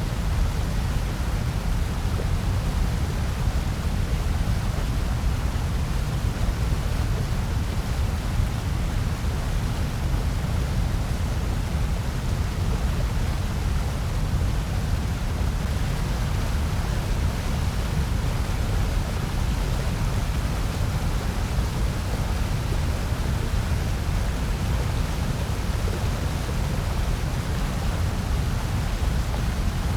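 Steady generated noise: an even, unchanging rush with no events in it and most of its weight in the deep lows.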